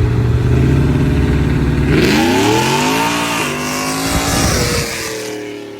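Car engine accelerating hard: a low steady engine note, then about two seconds in the revs climb with a loud rush of exhaust noise, drop briefly at an upshift, climb again and fall away.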